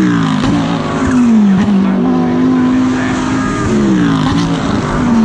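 GT3 race car engine heard onboard at speed, its note dropping near the start and again about four seconds in as the revs fall under braking, and holding steady in between.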